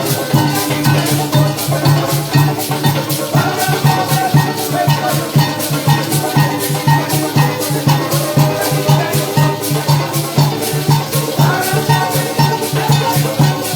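Parang music from a live band playing a stretch without singing: shakers keeping a quick steady beat over a pulsing bass note, with a melody on top.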